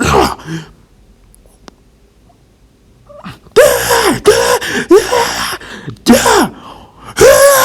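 A man's voice letting out a series of short, loud shouted fight cries and grunts, about five in quick succession from a few seconds in, each falling in pitch, after a brief grunt at the start.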